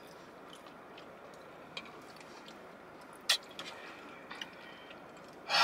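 Faint chewing of food, with a few short sharp wet mouth clicks, the loudest about three seconds in.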